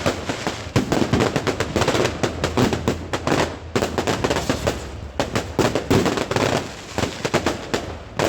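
Fireworks going off in dense runs of sharp bangs and crackles, with brief lulls between volleys.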